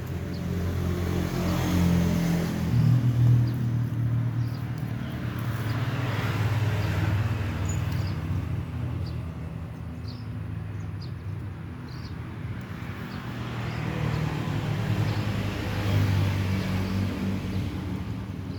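Passing road traffic: a low engine drone with noise that swells and fades several times as vehicles go by.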